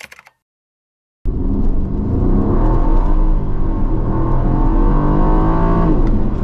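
Aston Martin Vantage's 4.0-litre twin-turbo V8 running hard under acceleration. It cuts in abruptly about a second in and stays loud.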